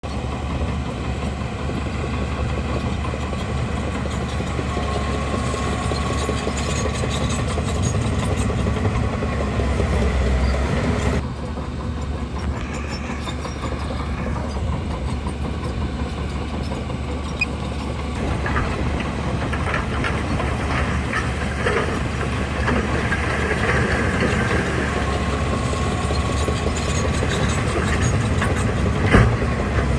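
Crawler bulldozer's diesel engine running steadily under load, with clanking and rattling from the steel tracks and blade. The sound changes abruptly about eleven seconds in, and a couple of sharp knocks come near the end.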